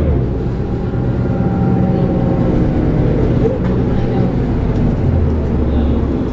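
Cummins ISL straight-six diesel engine of a 2006 New Flyer D40LF transit bus running, heard from on board. Its deep engine note drops back just after the start and comes in strongly again about five seconds in.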